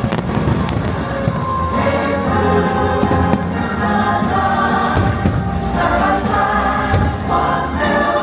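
Orchestral show music with a choir singing sustained chords, with several sharp fireworks bangs over it.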